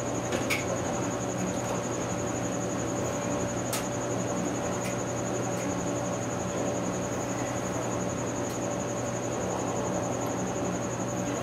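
Steady workshop background: a low electrical hum and hiss under a continuous high, rapidly pulsing trill like an insect's, with a few faint sharp clicks.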